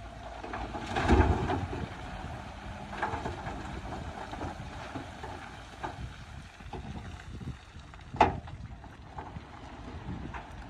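Heavy earthmoving machinery running with a steady engine rumble, wind buffeting the microphone. A heavy thump comes about a second in and a sharp clank about eight seconds in.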